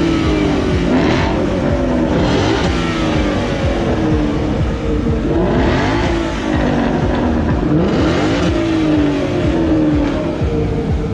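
Car engines revved hard again and again in a rev battle, the engine note climbing and dropping back through several rev cycles.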